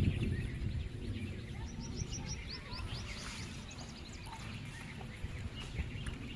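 Wild birds chirping over a low rumble of outdoor background noise, with a quick series of about six falling high notes near the middle.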